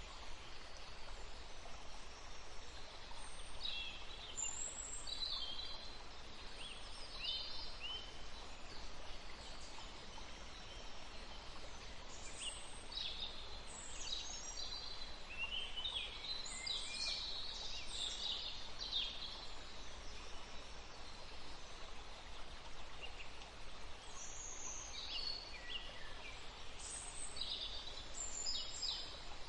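Songbirds singing in clusters of quick, high chirps and trills over the steady rush of a forest stream; the birds go quiet for a few seconds between clusters.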